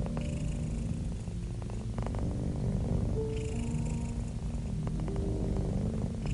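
Domestic cat purring close to the microphone, a continuous low, rhythmically pulsing rumble.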